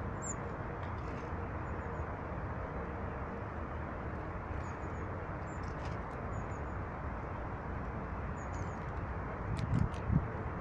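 Small birds giving faint, short, high chirps now and then over a steady low rushing background, with two dull knocks close together near the end.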